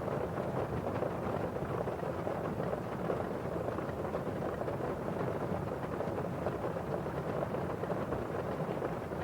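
Rain falling on a windowpane and outside, a steady, even noise with no single event standing out.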